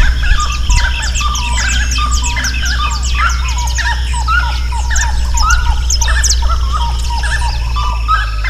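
A dense chorus of many birds singing at once, short chirps and whistles overlapping without a break, over a steady low rumble.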